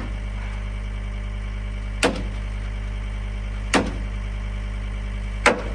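Three heavy hammer blows on a steel bolt, evenly spaced about two seconds apart, each with a short metallic ring, as the bolt is driven out. An engine idles steadily underneath.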